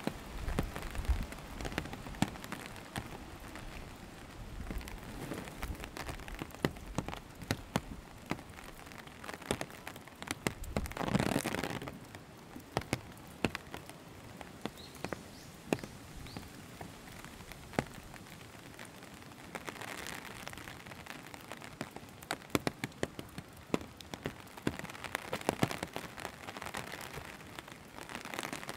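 Steady rain falling, with many sharp, close drops ticking throughout and a brief louder rush about eleven seconds in.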